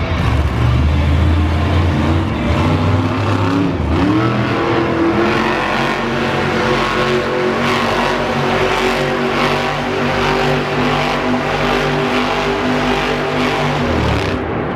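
Monster truck's supercharged V8 engine running hard and revving. Its pitch climbs about four seconds in and holds high, and the low rumble falls away near the end.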